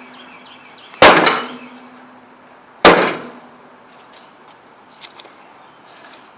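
Two heavy blows bang onto a microwave oven's all-metal casing, a little under two seconds apart. The first leaves a short metallic ring. The casing dents rather than breaks.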